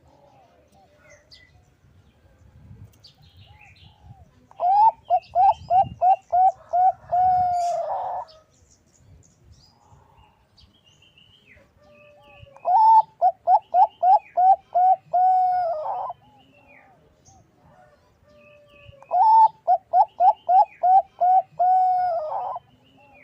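Zebra dove (Bangkok perkutut) singing three phrases, each a quick run of about eight short cooing notes that ends in a longer held note.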